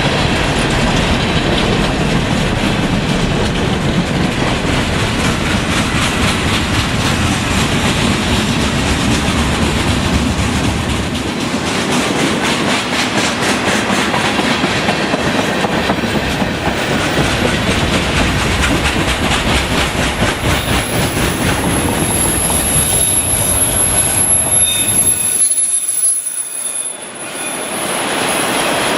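Train rolling past on the rails, its wheels clicking over rail joints, with a thin high-pitched wheel squeal in the later part. The noise dips briefly near the end.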